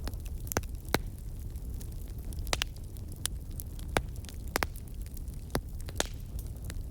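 Campfire crackling, with about ten sharp pops at uneven intervals over a steady low rumble.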